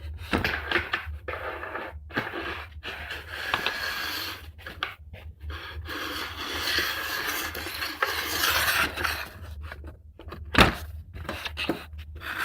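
A metal file held in a half-degree base bevel guide is drawn along a ski's steel edge, rasping in strokes with short pauses between them as it takes a little metal off the base edge. There is a single sharp knock about ten seconds in.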